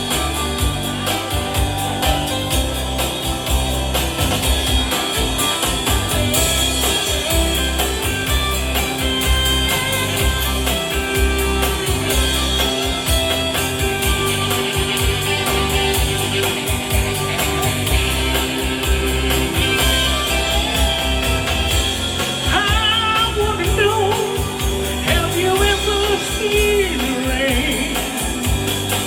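Rock band music with a steady drum and bass beat, guitar and singing; a wavering melodic lead line stands out in the last few seconds.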